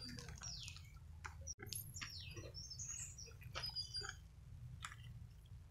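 Birds chirping: short calls that sweep down in pitch, repeated several times, with other brief high chirps. A few faint clicks sound over a low steady hum.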